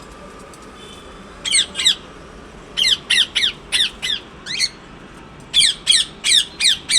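A parrot giving sharp, high squawks in short runs: a pair, then a quick string of five, a single one, and a fast burst of about three a second near the end.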